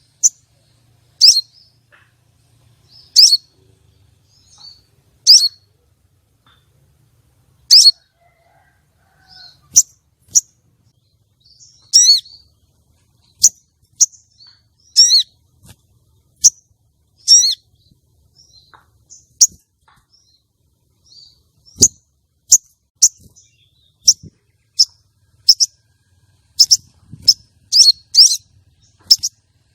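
Female sogon calling: short, sharp, high chirps repeated irregularly every second or two, with a few longer warbled calls and a quicker run of chirps near the end. These are the calls used to lure male sogon and stir them into breeding display.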